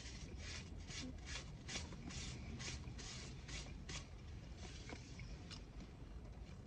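Close-miked chewing of a sandwich: soft, regular mouth sounds about three a second over a low steady hum, with one sharp click near the end.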